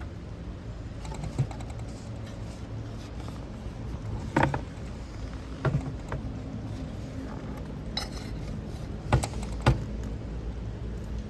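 Camping gear being handled: a handful of sharp clinks and knocks, a few seconds apart, two of them close together near the end, over a low steady hum.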